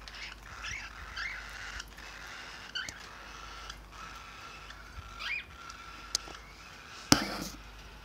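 Small cage birds chirping: short rising chirps a few times over several seconds, with a single loud knock just after seven seconds in.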